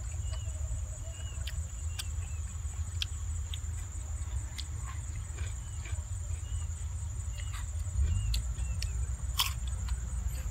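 Close-up eating sounds: chewing and crunching of boiled chicken and raw cucumber, with sharp clicks, the loudest about nine seconds in. Under it runs a low wind rumble on the microphone and a steady high insect drone, with faint short chirps.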